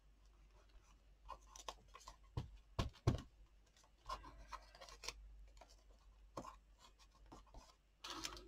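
Hands handling paper on a journal page: light rubbing and scratching with scattered small taps and brief rustles, a louder rustle near the end.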